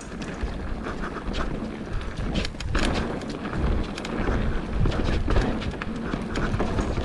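Mountain bike riding a dirt trail: a steady rumble of wind on the camera microphone and tyres on the ground, with many short rattles and knocks from the bike over the terrain.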